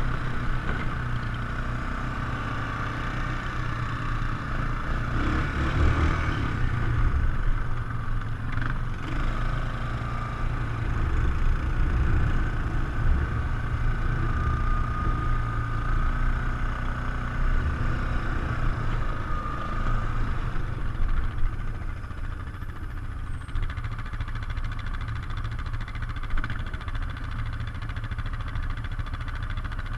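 ATV engine running steadily under way, with a heavy, fluttering low rumble that eases somewhat a little past two-thirds of the way through.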